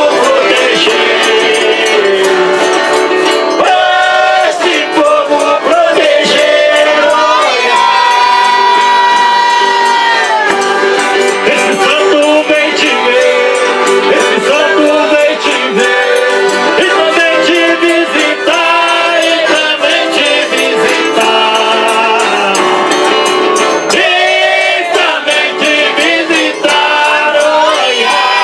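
Brazilian folk music: an eight-bass button accordion (8 baixos) playing held chords and melody while voices sing, with a steady shaker and tambourine rhythm.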